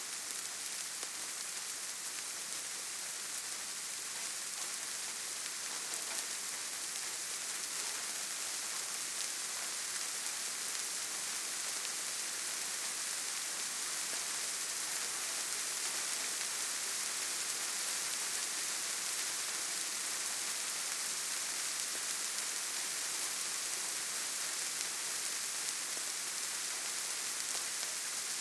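Steady rainfall in a forest: an even, unbroken hiss with the most energy in the high range and no single drops or other events standing out.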